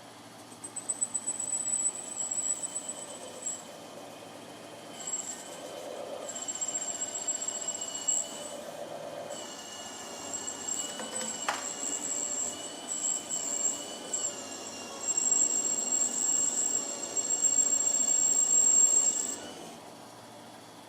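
Parting tool on a Boley lathe cutting off an aluminium workpiece, squealing at a high pitch in stretches with short breaks. The tool is feeding in at an angle, because the top slide was not set back square.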